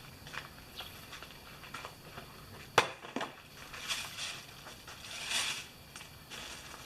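Scattered crunching and rustling, like steps and handling outdoors, with a sharp click a little under three seconds in and a fainter click just after.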